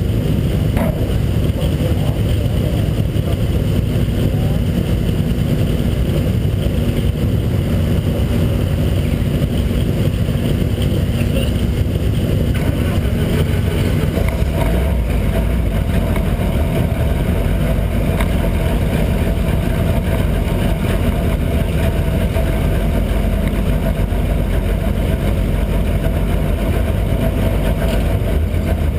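Race car engine idling steadily while the car stands still. Its note shifts slightly about twelve seconds in.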